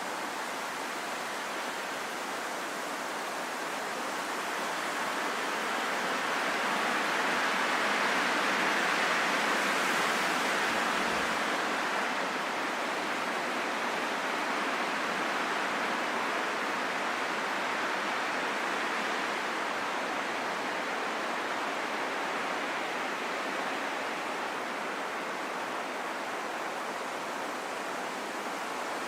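Wind blowing steadily as an even rush with no whistle or howl. It swells into a gust over several seconds, from about a quarter of the way in, then eases back to its steady level.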